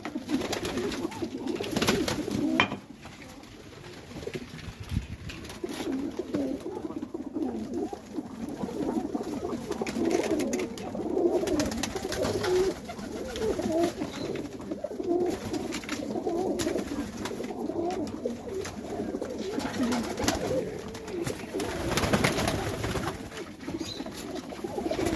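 Many highflyer pigeons cooing continuously, their coos overlapping, with a few short sharp clatters here and there.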